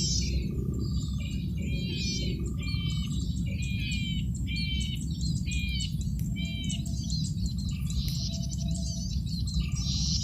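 Male golden-headed cisticola singing: a quick run of short, high chirping phrases, about one or two a second, over a steady low background noise.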